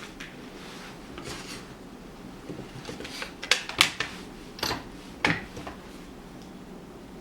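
Plastic panels of a fume extractor's clear box knocking and clicking against each other as two pieces are fitted together, with a handful of sharp clicks in the middle stretch.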